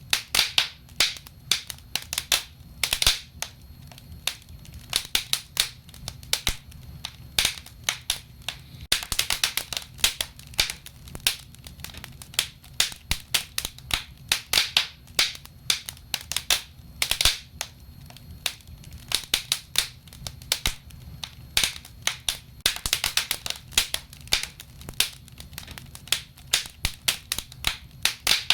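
Wood fire burning in a fireplace: a dense, irregular crackle of sharp pops and snaps over a low steady rumble of the flames.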